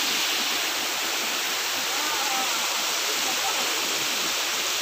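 Waterfall rushing: a steady, even roar of falling water. A faint voice is heard briefly about two seconds in.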